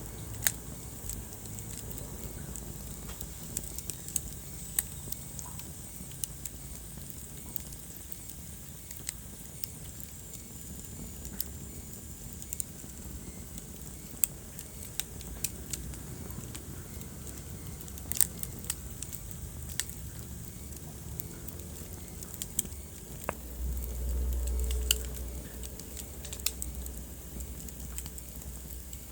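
Wood fire burning in a fireplace: irregular sharp crackles and pops over a low steady rumble of flames, with a brief louder swell of low rumble about four-fifths of the way through.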